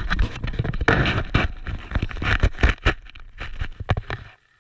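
Handling noise of a GoPro in its protective case being pushed into snow: close, loud crunching and scraping of snow against the case, with irregular knocks and crackles.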